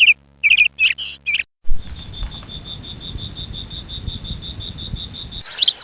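A small bird chirping, a quick series of short notes, for the first second and a half; then an abrupt switch to an insect's steady high chirring, about seven pulses a second, over a low rumble. A new bird chirp comes in near the end.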